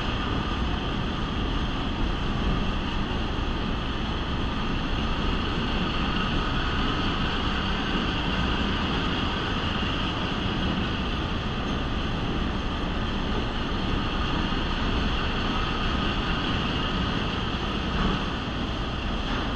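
Diesel-hauled train climbing upgrade inside a rail tunnel, heard from an open-air car: a steady, loud running noise of locomotive and wheels on the rails, with the locomotive working under load.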